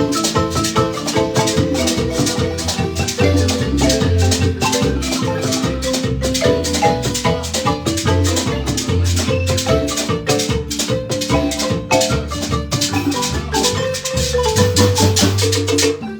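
Guatemalan marimba band playing a lively tune: quick repeated mallet notes over deep bass notes, with rhythmic percussion keeping a steady beat.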